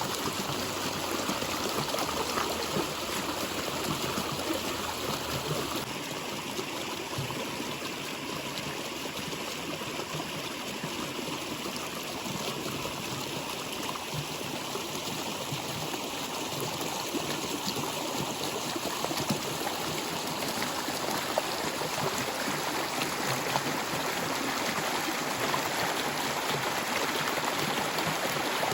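Water flowing in a stream: a steady, even rush with fine splashing, easing slightly in the middle and building again near the end.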